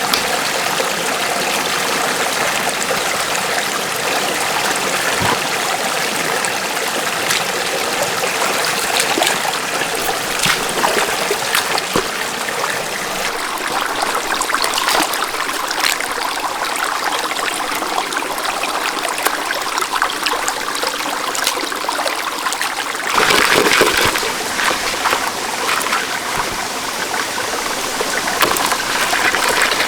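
Water flowing and trickling steadily, with a louder surge about 23 seconds in.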